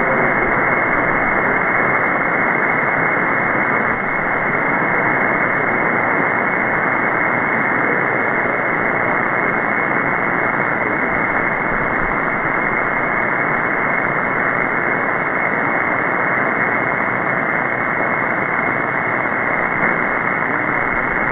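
Steady shortwave static hiss from an SDRplay RSPduo receiver in upper-sideband mode on the 20-metre band, with no station coming through. Band conditions are poor from a major geomagnetic storm.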